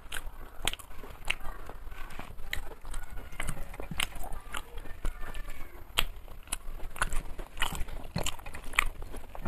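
A person chewing and eating food close to the microphone, with short wet mouth clicks and smacks one or two times a second.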